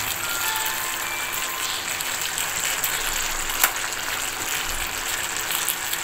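Diced potatoes frying in oil in a pan: a steady sizzle with faint crackles, and one sharp click about three and a half seconds in.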